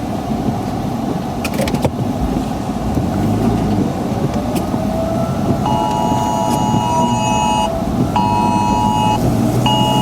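Steady in-vehicle rumble with a few clicks, then about halfway through a phone's Wireless Emergency Alert attention tone starts. It is a harsh two-tone blare, one long tone of about two seconds followed after short pauses by one-second tones. This is the cadence of an emergency alert, here a tornado warning.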